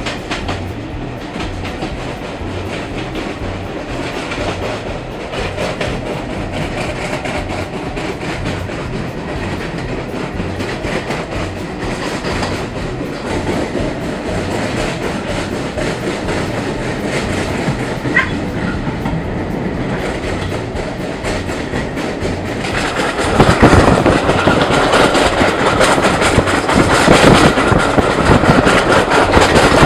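Heritage railway passenger coach running along the line, heard from inside: a steady rumble of wheels on rail with a rhythmic clickety-clack over the rail joints. About 23 seconds in it turns louder and rougher, as rushing air from an open window joins the rail noise.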